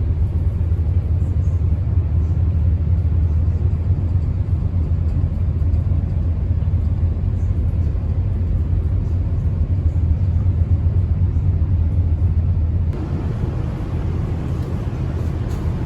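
Steady low engine drone with a strong deep hum, heard from aboard. About 13 s in it cuts abruptly to a lighter, hissier rushing noise in which the deep hum is weaker.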